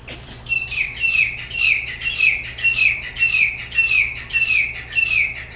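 A bird calling right outside the window: a long, rapid series of loud, harsh, downward-slurred notes, about three a second, starting about half a second in.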